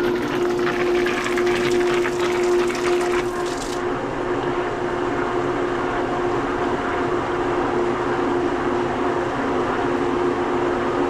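Swimming pool pump running steadily with water rushing through it, a constant hum over the flow. A higher hiss of water cuts off about four seconds in.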